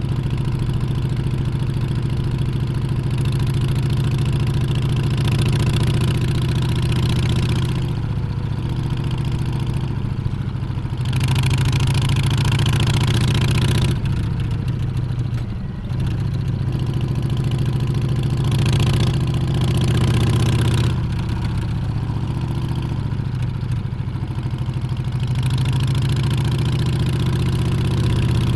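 Harley-Davidson Street Bob's Milwaukee-Eight V-twin running continuously while riding, its deep exhaust note rising and easing with the throttle. There is a brief drop in level and pitch about halfway through, with wind rush above it.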